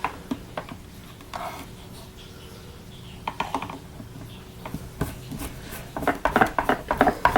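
Clicks, scrapes and rattles of the plastic housing and parts of a Vax Power 7 Pet vacuum cleaner being handled during reassembly around a newly fitted motor. A few scattered clicks, then a quick run of ratchet-like clicking near the end.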